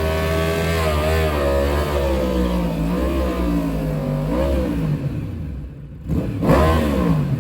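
Car engine revving, its pitch wavering up and down, then dropping off about five seconds in before one quick rev that climbs sharply and falls away near the end.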